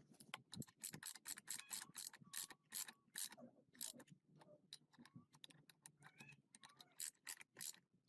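A run of sharp, irregular mechanical clicks, a few a second, with faint short squeaks in between.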